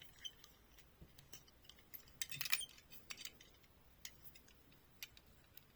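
Faint, scattered clicks and light rattles of a small die-cast toy and its plastic packaging being handled, with a short cluster of clicks a little over two seconds in.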